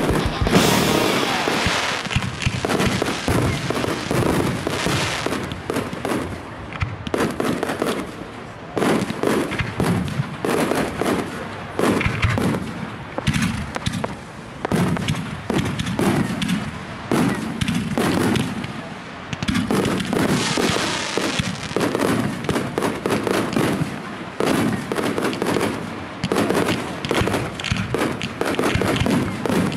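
Aerial fireworks shells bursting in quick succession, with many sharp reports and crackling throughout, swelling and easing in loudness.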